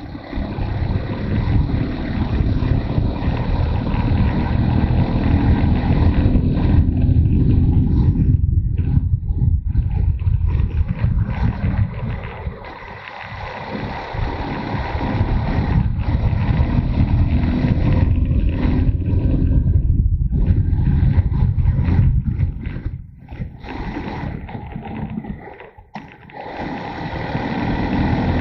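Motorcycle engine running under way, with wind rushing over the microphone. The engine eases off twice, about halfway through and again near the end, then pulls harder again.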